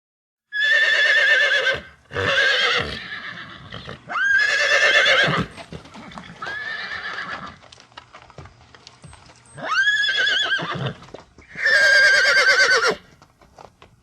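Horse whinnying six times, each call about a second long with a quavering pitch; the fourth is quieter. Small knocks sound in the gaps between calls.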